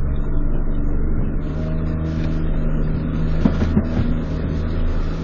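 A small fishing boat's engine running steadily, its note stepping up to a higher pitch right at the start and holding there.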